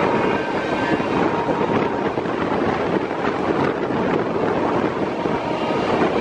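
LHB passenger train running at speed, a steady, even rush of wheel and track noise with wind blowing over the microphone.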